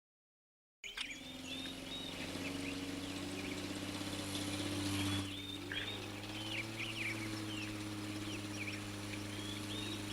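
Birds chirping in short scattered calls over a steady low hum, starting after a second of dead silence.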